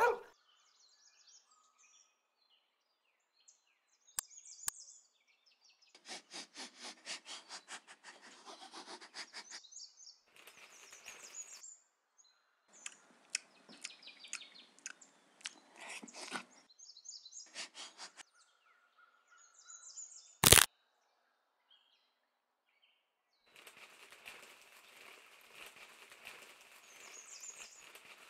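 Birds chirping in the background of an animated film's soundtrack, with several bursts of rapid chewing and crunching sounds as a cat eats an egg. One loud, sharp hit comes about twenty seconds in, and a steady noisy stretch follows near the end.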